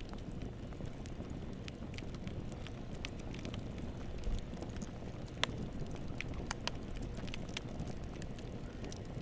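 Wood fire burning in a fireplace: a steady low roar of the flames with irregular sharp crackles and pops, the loudest about four and five and a half seconds in.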